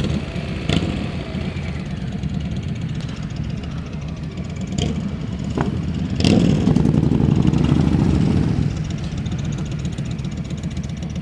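Motorcycle engine running at low road speed, getting louder for a couple of seconds about six seconds in as it pulls on, then easing back, with a few short clicks over it.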